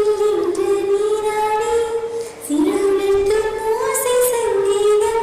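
A Tamil song: a high voice sings long held notes that slide between pitches, over music.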